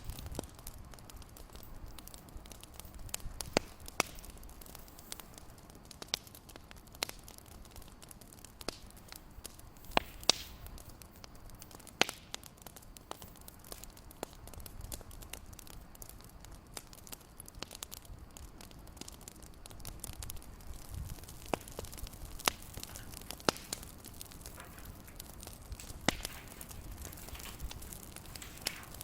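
Wood fire crackling: a steady soft hiss with irregular sharp pops and snaps, a few of them louder.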